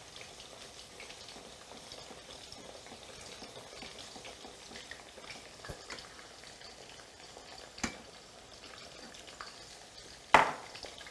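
Zucchini slices frying in a pan of oil, a faint steady sizzle, while a wire whisk stirs béchamel in a stainless steel pot. There are a few small clicks and one sharper knock near the end.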